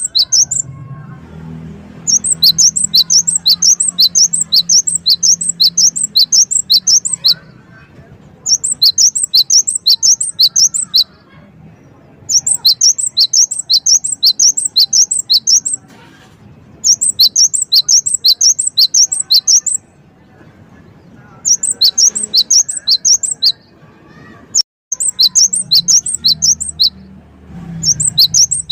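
Gelatik wingko (cinereous tit) singing: loud, sharp, high whistled notes repeated quickly, about three a second, in bouts of a few seconds with short pauses between.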